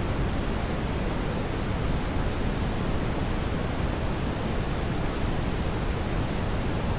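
Steady brown noise: an even, unchanging rush of noise weighted toward the low end, with no other sounds.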